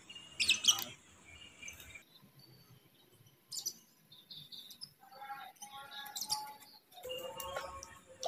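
Birds chirping in short calls, several times, over a quiet outdoor background.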